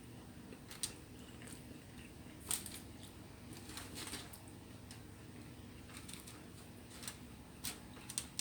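Faint eating sounds: a person chewing a mouthful, with a handful of short, sharp mouth clicks scattered through, over a low steady room hum.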